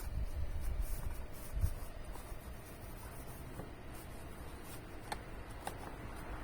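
Light scratching and scattered small clicks of hand work, with a few low thumps in the first two seconds.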